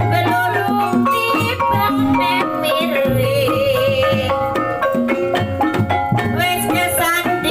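Javanese reog/jaranan ensemble music: hand drums beating a steady rhythm under struck metal percussion, with a wavering melody line above.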